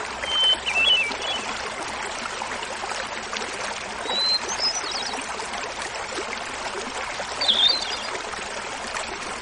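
Hermit thrush singing three phrases, each a held opening note followed by a quick flute-like flourish, every phrase at a different pitch, over the steady rush of a small mountain waterfall.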